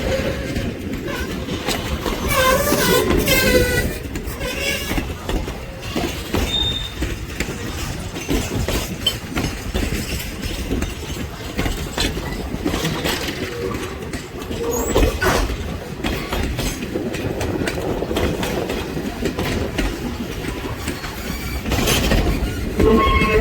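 Steam-hauled passenger train rolling past, its wheels clicking steadily over the rail joints. A brief wavering squeal comes from the wheels a couple of seconds in, and again near the end.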